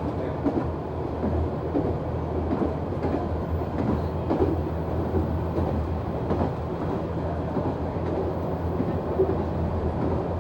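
NT100 diesel railcar running along the line, heard from the driver's cab: a steady low engine drone under the rumble of wheels on rail, with scattered clicks from the track.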